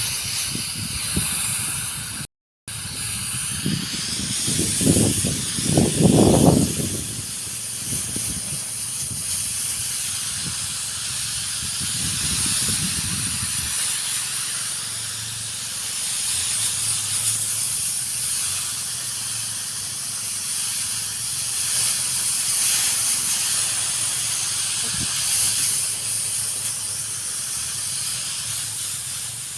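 Steady hiss of a high-pressure power sprayer's nozzle spraying a chili crop, with some low rumbling in the first half.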